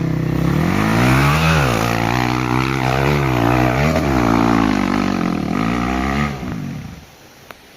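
Hero Xpulse 200's single-cylinder four-stroke engine revving up and down under changing throttle, its pitch rising and falling several times, before the sound falls away near the end. A single sharp click comes just before the end.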